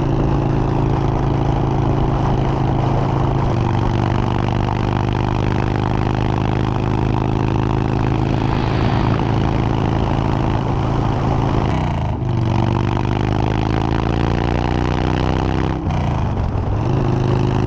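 Motorcycle engine pulling under acceleration while riding, with wind rush. Twice, a couple of seconds apart, the engine note drops suddenly at a gear change and then climbs again as the bike speeds up.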